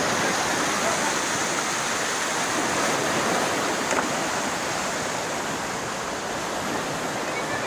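Steady rush of water pouring down a waterfall, with a single faint click about four seconds in.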